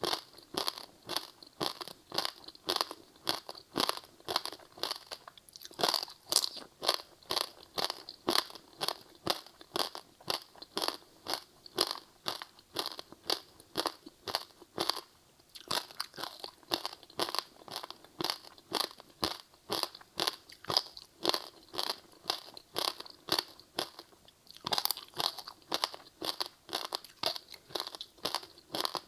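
Close-miked crunching and chewing of a crispy seaweed-wrapped rice snack, a steady run of quick crisp crunches about three a second, with a few louder bites about six seconds in and near the end.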